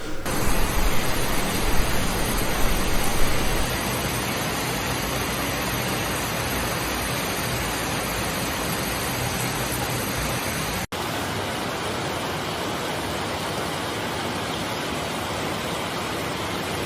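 Steady rushing water noise with no tone in it, heavier and deeper in the first few seconds, cutting out for an instant about eleven seconds in before going on more evenly.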